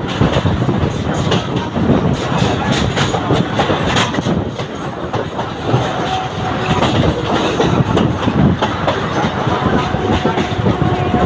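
Mumbai suburban local train running on the track, its wheels clattering over the rail joints in a dense run of clicks, heard from on board. A faint steady whine comes in about halfway through.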